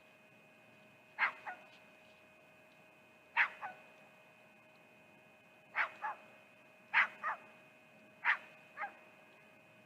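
An animal barking in double yelps, five times: each a sharp bark dropping in pitch, quickly followed by a softer second one, a second or two between pairs. A faint steady electrical hum runs underneath.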